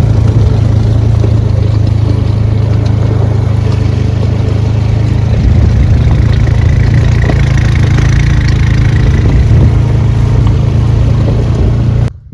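Four-wheeler (ATV) engine running steadily and loud, with a strong low drone. It cuts off suddenly near the end.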